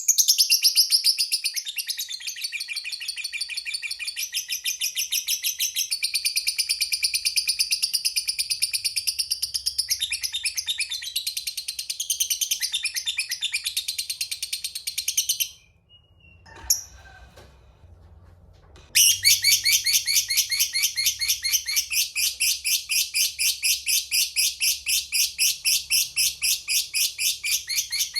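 A lovebird chattering in a long ngekek: a rapid, unbroken string of shrill chirps, about five a second, for some fifteen seconds. After a short pause with one single chirp, another long run starts.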